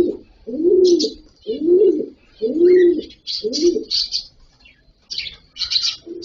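A dove cooing: a run of low, arched coos about one a second that stops about four seconds in, over short high chirps from cockatiels. The chirping grows busier in the last couple of seconds.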